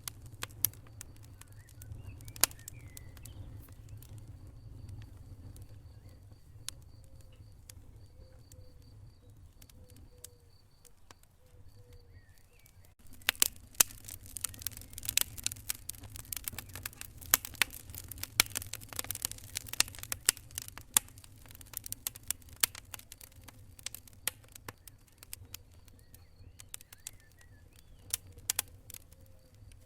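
Wood fire crackling and popping in a fireplace over a low steady rumble of the flames; the crackling turns denser and louder a little under halfway through, then thins out again.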